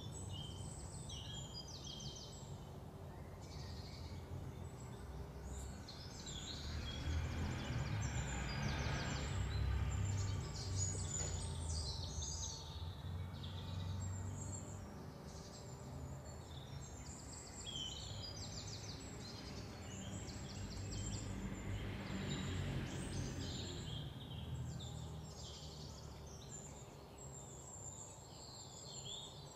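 Birds chirping and trilling again and again, over a low outdoor rumble that swells for a few seconds a quarter of the way in and again later.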